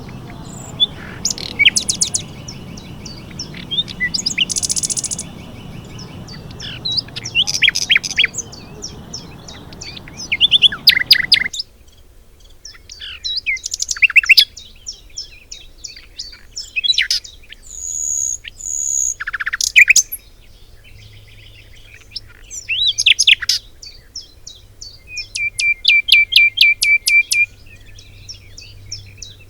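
Several songbirds singing and calling, a mix of chirps, trills and whistled phrases, including a fast trill of repeated notes near the end. A low, steady rush runs under the first ten or so seconds and stops abruptly.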